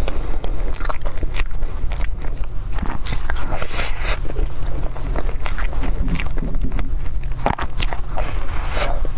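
Close-miked biting and chewing of a soft baked pastry with a tender egg filling: irregular wet mouth clicks and small crunches of crust, over a steady low hum.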